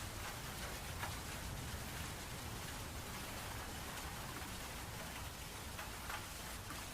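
Steady rain falling, with scattered individual drops ticking sharply through it.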